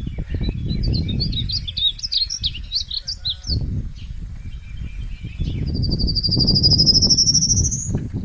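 Birds chirping in quick, short high calls over the first few seconds, then one long rising whistle, the loudest sound, lasting a couple of seconds near the end. A low rumbling noise runs underneath.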